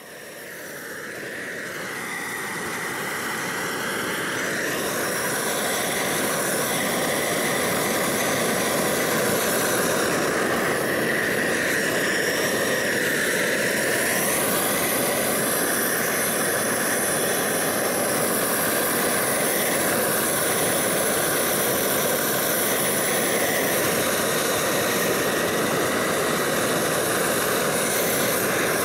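Homemade gas roofing torch burning steadily, a loud even rush of flame used to melt torch-on roofing felt down. It swells up over the first few seconds and then holds level.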